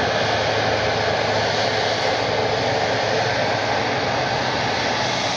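Airliner's engines running: a loud, steady roar with a low hum underneath.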